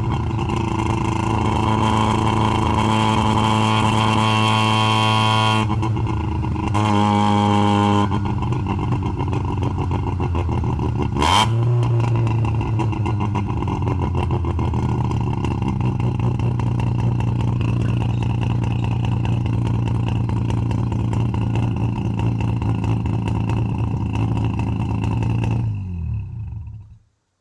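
Half-bridgeported Mazda 12A rotary engine running at a steady speed, with louder stretches in the first third and a single sharp crack partway through. It is shut off near the end, the sound dying away to silence.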